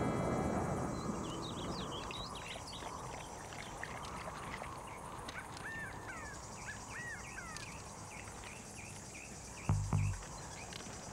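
Outdoor ambience: birds chirping repeatedly over a steady hiss, with the last of a song's music fading out at the start. Two short, dull low thuds come close together near the end.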